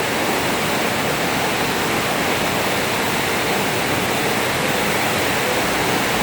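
Very heavy rain hitting a house roof: a loud, steady rush.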